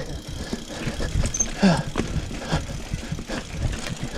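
Mountain bike clattering and rattling over rough trail on a fast descent, with a steady low rumble of wind and tyres under many short knocks. The rider lets out a short falling "whoa" about a second and a half in, and another shorter one soon after.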